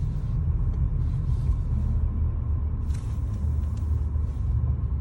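Car driving slowly through a snowstorm, heard from inside the cabin: a steady low road and engine rumble, with a short hiss about three seconds in.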